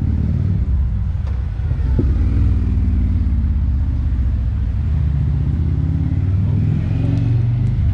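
Motorcycle engines running with a steady low rumble that shifts a little in pitch.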